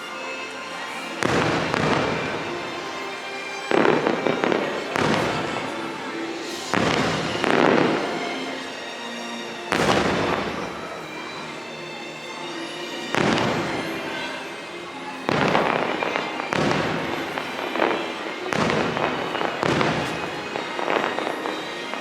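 Fireworks shells bursting one after another, about a dozen sharp bangs a second or two apart, each trailing off in crackle, over the fireworks show's music.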